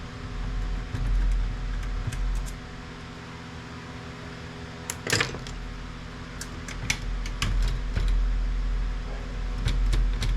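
Clicks and light clatter of plastic and metal printer parts being handled and pried apart, one sharper knock about five seconds in, over a steady low hum.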